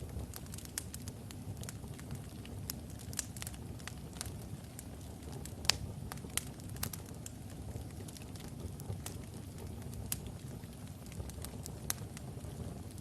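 Wood logs burning in a fireplace: a steady low rumble of the flames with frequent irregular crackles and pops, one sharper pop about halfway through.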